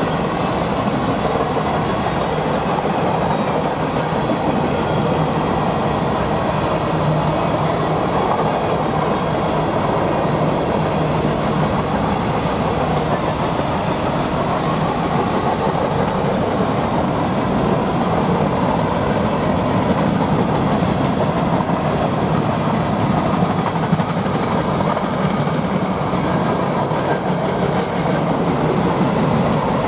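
Freight train of covered hopper cars rolling steadily past, a continuous rumble of steel wheels on the rails.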